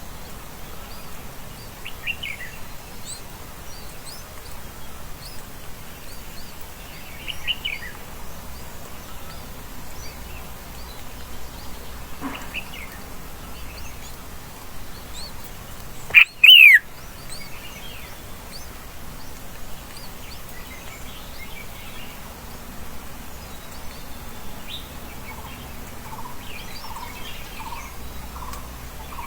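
Wild birds calling with short, scattered chirps. About halfway through comes one very loud, brief falling call, and near the end a run of about half a dozen lower repeated notes.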